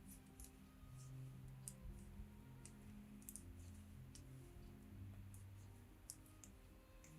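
Stainless steel circular knitting needles clicking faintly and irregularly as stitches are worked, about a dozen light clicks, over soft low background music.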